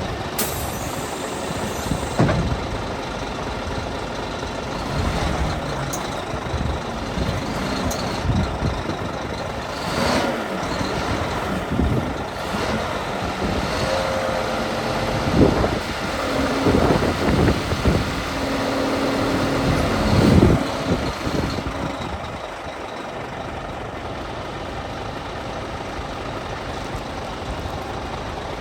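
Scania P 360 truck's diesel engine running, with several short sharp sounds and a couple of brief held tones along the way.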